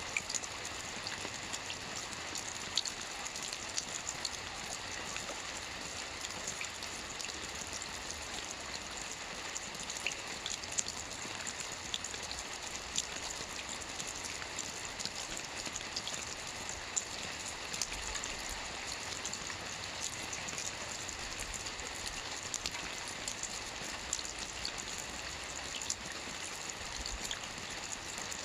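Gentle light rain falling steadily, a constant hiss with many small drops pattering on a surface, no thunder.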